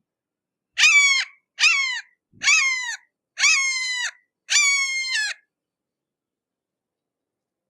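Hawk calling: a series of five harsh, slightly falling screeches in quick succession, then silence.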